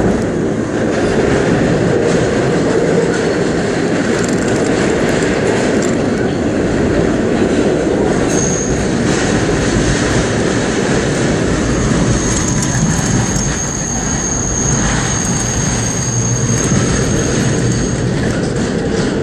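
R32 subway train running through a tunnel, with a steady rumble of wheels on the rails. A high-pitched wheel squeal sounds briefly about eight seconds in and again for several seconds from about twelve seconds.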